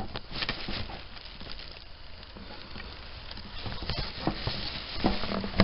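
Rustling and scattered light clicks and knocks of spent firework debris being picked up by hand, growing busier in the second half.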